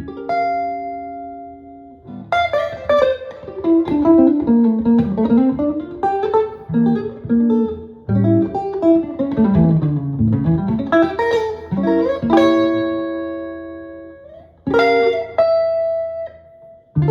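Solo jazz guitar: a held chord, then quick single-note runs winding down and back up for about ten seconds, then sustained chords with one more chord struck near the end and left ringing.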